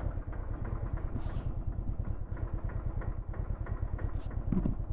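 Royal Enfield Thunderbird 500's single-cylinder engine idling with an even, steady beat.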